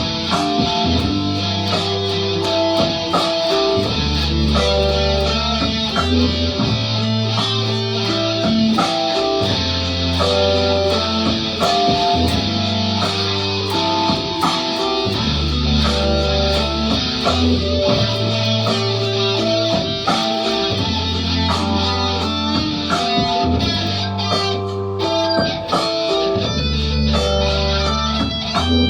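Instrumental music led by guitar: picked guitar notes over low bass notes that change about every two seconds, with a steady ticking beat.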